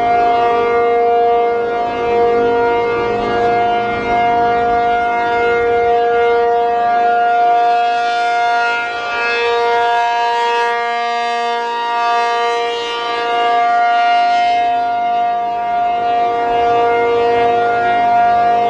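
P-50 outdoor warning siren sounding a steady two-tone wail, swelling and fading slightly every few seconds. It has a buzzy purr, which the owner explains as the cold, brittle fiberglass horn flexing and vibrating under the siren's sound pressure.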